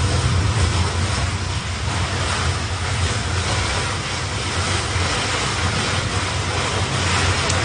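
Storm noise: a steady roar of heavy, wind-driven rain, with a deep wind rumble buffeting the microphone.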